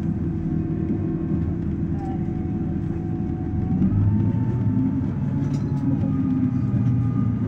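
Passenger train running, heard from inside the carriage: a steady low rumble with a faint whine that shifts in pitch about two and again four seconds in, growing a little louder from there.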